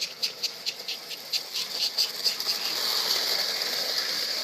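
Lionel model train running on its track: a quick run of clicks that slows over the first couple of seconds, then turns into a steady hiss about three seconds in.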